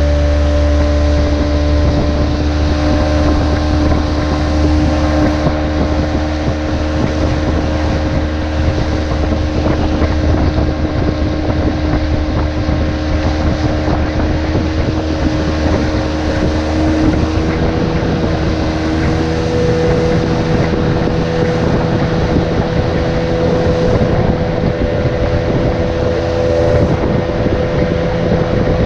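Brushless-motor RC boat running on the water, a steady whine over a rushing hiss, the pitch dropping slightly a little past halfway; wind on the microphone.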